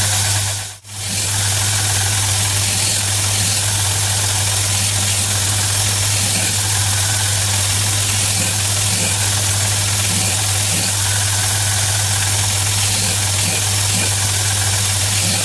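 Homemade belt grinder running steadily, its motor giving a constant low hum under the hiss of the abrasive belt. The sound drops out for a moment about a second in, then carries on unchanged.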